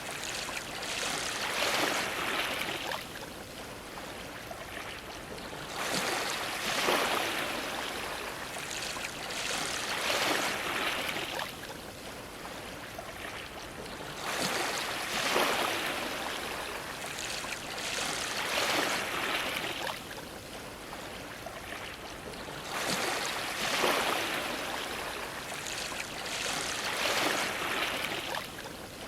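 Ocean waves washing against a dock, one swell of splashing surf every two to four seconds over a steady wash of water.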